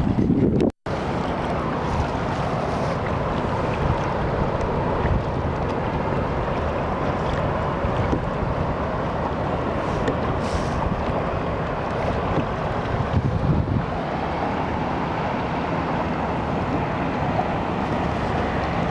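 Steady wind noise on the microphone mixed with water rushing past a moving kayak, cut by a brief dropout about a second in.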